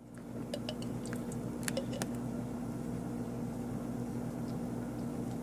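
Steady electric hum of a running appliance, fading in at the start, with a few light clicks about a second and two seconds in.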